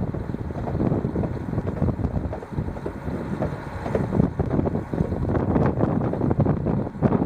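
A local train running through a blizzard: a low, uneven rumble with gusty buffeting of wind on the microphone.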